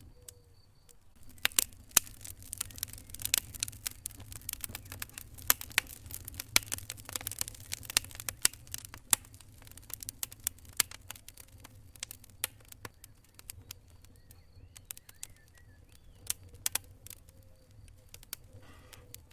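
Wood fire crackling: irregular sharp snaps and pops, thick for the first half and thinning out later.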